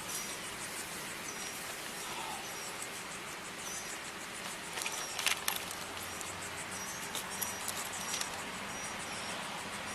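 Outdoor ambience with insects chirping in short, repeated high calls over a steady background hum. About five seconds in there are a few sharp clicks and knocks of handling noise.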